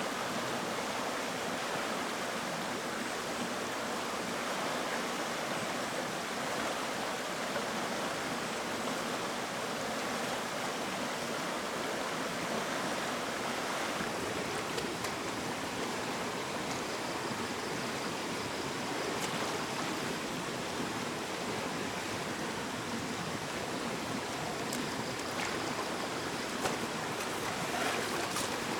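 Steady rush of flowing stream water, with a few faint clicks in the second half.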